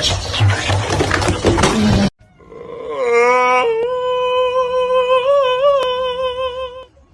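An animal's long, drawn-out call that rises at first and then holds one steady pitch with a slight waver for about four seconds. It follows a dense, noisy jumble of sound that ends abruptly about two seconds in.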